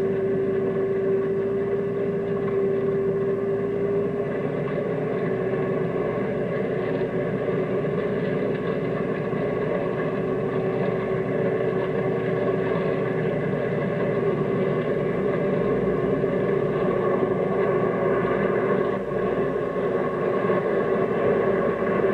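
Military gun truck driving: steady engine and road noise with a continuous whine.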